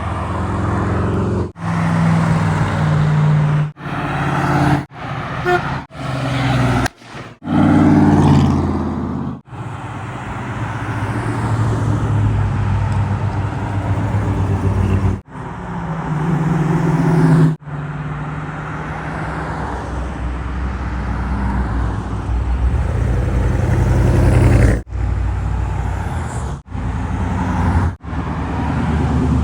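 Classic car engines running as the cars drive past in a parade, heard in a string of short clips with abrupt breaks between them.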